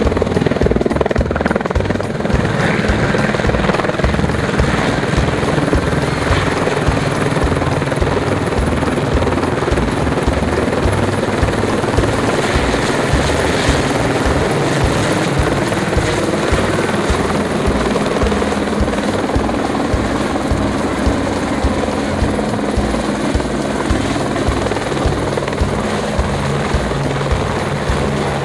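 Helicopter running close by, its rotor blades beating in a fast, steady rhythm over the engine noise.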